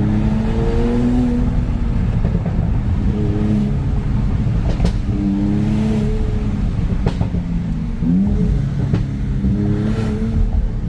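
Mercedes-AMG CLS 53's turbocharged inline-six running through an aftermarket Euro Art cat-back exhaust with full piping and mufflers and the stock downpipe, revving up and down, with a rising rev about eight seconds in. The tone is soft and not overly aggressive, with a few brief sharp cracks along the way.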